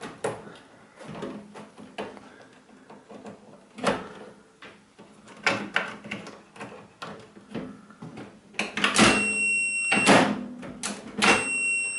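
Clicks and knocks of a microwave oven's door and its interlock microswitches being worked. Near the end a multimeter's continuity beeper sounds twice, each beep about a second long, as a switch closes its circuit.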